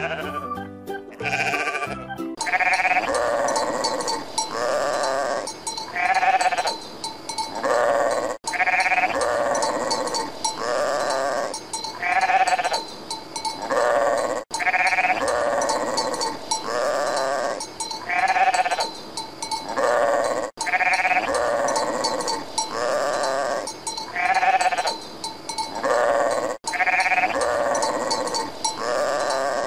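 Sheep bleating over and over: a short run of bleats that repeats unchanged about every six seconds.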